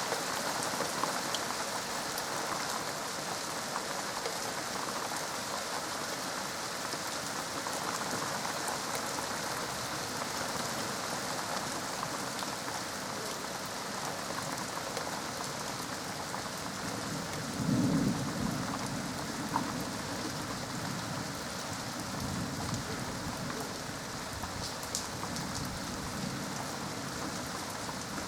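Steady rain falling during a thunderstorm. About two-thirds of the way through, a clap of thunder breaks out and trails off into a low rumble.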